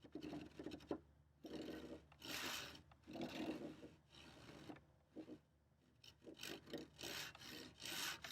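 Hand saw crosscutting a thick wooden workbench leg, in back-and-forth strokes of about a second each, with shorter, quicker strokes near the end.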